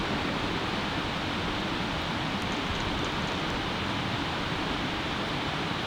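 Campfire burning: a steady rushing noise with a few faint crackles around the middle.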